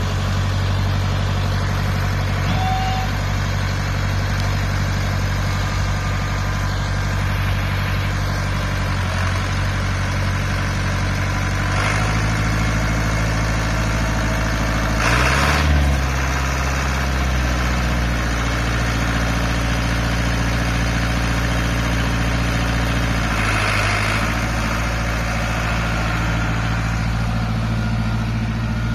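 International Harvester tractor's engine running steadily, its speed shifting a few times, with a brief rise and fall in pitch about halfway through.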